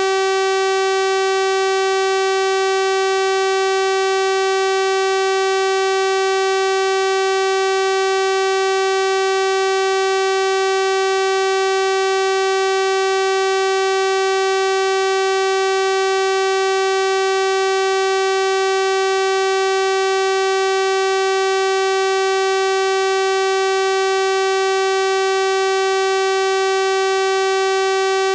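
Synthesized 384 Hz sawtooth-wave tone, held steady and unchanging, with a bright buzzy stack of overtones.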